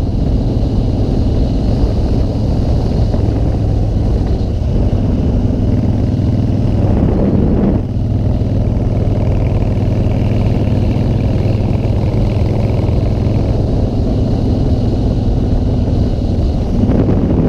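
Motorcycle engine running steadily at riding speed, with wind rushing over the microphone; the engine note drops briefly about eight seconds in.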